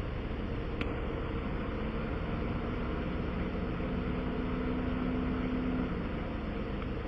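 Vehicle engine idling steadily, with a faint single click less than a second in.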